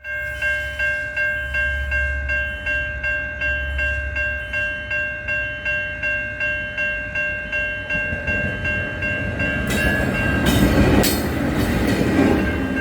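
Railway level crossing warning bell ringing at a steady rate of about two and a half strokes a second. A train's rumble builds up beneath it from about ten seconds in.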